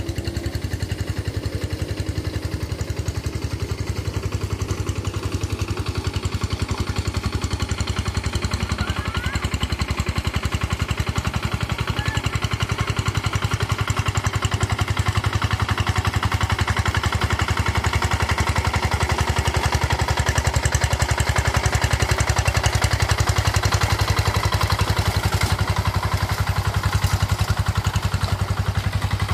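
Rice-field tractor engine running steadily under work, with a rapid, even chugging beat that grows slightly louder over the first half.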